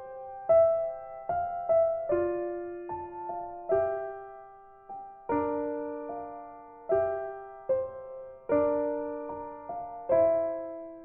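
Gentle background piano music: single notes and chords struck at a slow, unhurried pace, each ringing out and fading.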